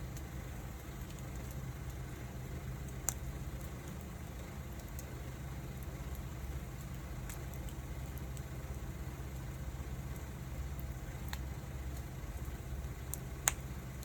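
Wood fire burning, with sparse sharp crackles and pops; the loudest pop comes near the end. Under it runs a steady low rumble.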